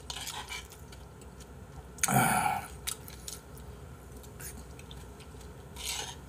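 Eating sounds: chewing a mouthful of ramyun and rice, with light clinks of a metal spoon against the bowl. A short, louder mouth sound comes about two seconds in.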